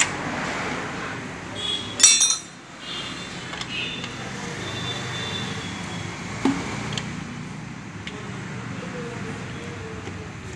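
Metal tools and engine parts clinking and clattering while work goes on at an engine's timing chain, with a loud ringing clatter about two seconds in and single sharp knocks a little past halfway.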